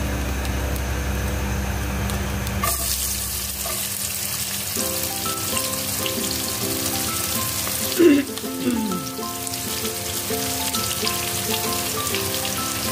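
Sliced shallots and garlic hitting hot cooking oil in a nonstick wok: a sudden sizzle about three seconds in that settles into steady frying. There is a sharp knock about eight seconds in.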